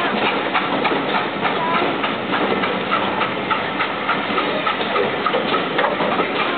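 Railway passenger coaches rolling slowly past, their wheels clicking and rumbling over the track in a steady, uneven patter of clicks.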